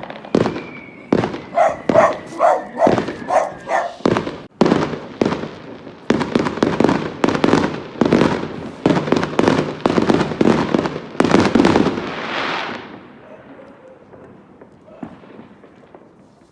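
Fireworks going off: a series of sharp bangs about twice a second, then a dense run of rapid crackling reports that dies away near the end.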